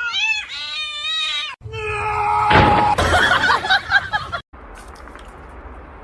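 A cat yowling in long calls that waver up and down in pitch. After a break of about a second and a half, a loud shrill scream follows over noisy clatter, then fades to a low hiss.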